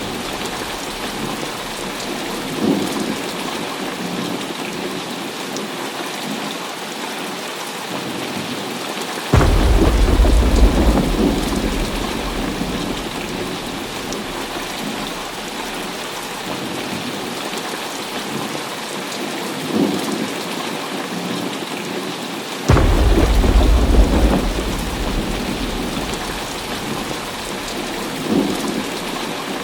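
Heavy rain falling steadily, with two sudden thunderclaps, about a third of the way in and again near three quarters through, each rumbling on for a couple of seconds before fading back into the rain.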